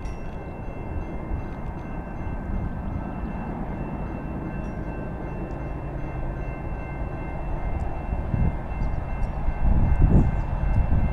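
Distant train approaching: a low rumble that grows steadily louder over the last few seconds.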